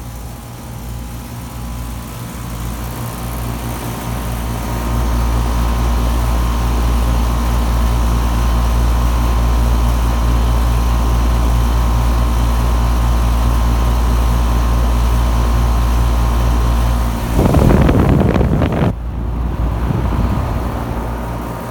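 Fedders packaged-unit air conditioner with a scroll compressor running, quite noisy: a steady hum with a fixed tone, growing louder over the first few seconds. Near the end a louder rushing noise lasts about a second and a half.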